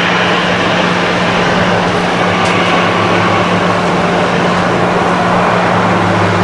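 Airbus A321 airliner's twin jet engines, a loud steady roar with a constant low hum underneath.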